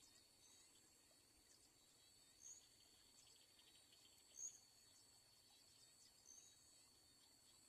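Faint outdoor insect chorus: a steady high-pitched drone, with a short high chirp repeating about every two seconds.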